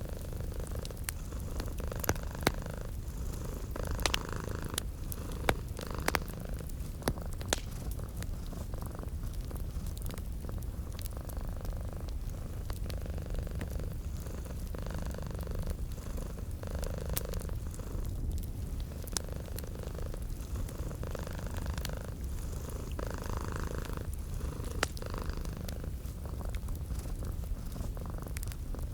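Domestic cat purring steadily, its breaths swelling and easing every couple of seconds, with fireplace crackling: scattered sharp pops and snaps from burning wood.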